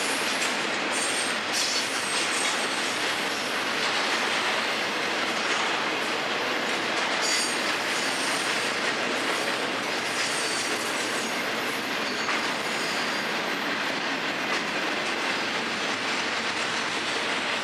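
Double-stack container cars and trailer flatcars of a freight train rolling past, a steady noise of steel wheels on rail. Faint high wheel squeals come at the start and again about seven seconds in.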